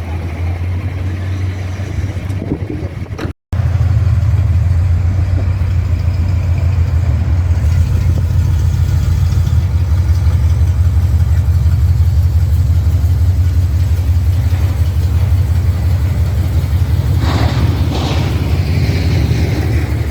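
A car engine idling with a steady low rumble. The sound cuts out for a moment about three seconds in, then carries on louder.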